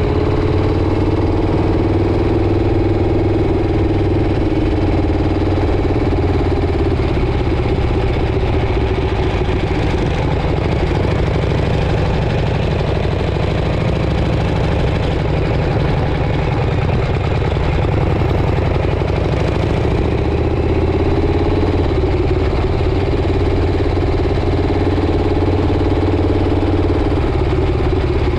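Motorcycle engine running steadily while riding, its pitch drifting gently up and down with speed, under a constant rush of wind and road noise.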